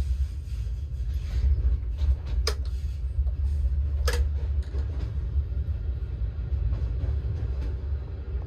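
Train running with a steady low rumble, and two sharp metallic clicks about two and a half and four seconds in.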